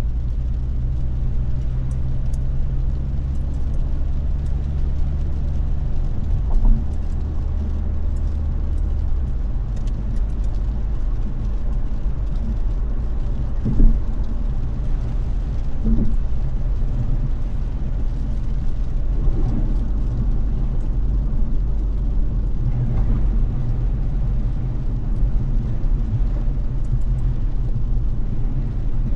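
Car in motion heard from inside: a steady low drone of engine and tyre road noise, whose pitch drops and settles about nine seconds in, with a couple of soft knocks.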